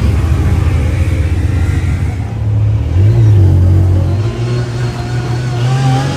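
Side-by-side engine running under load, its pitch rising about three seconds in as it speeds up, then holding higher.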